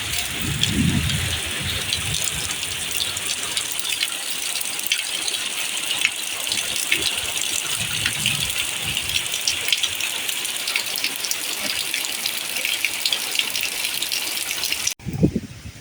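Rain pouring down: a steady rushing hiss flecked with countless small drop impacts. It cuts off abruptly near the end.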